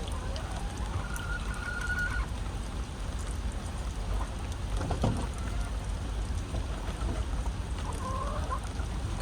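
Hens calling over steady rain: one drawn-out, even-pitched call about a second in and a shorter call near the end.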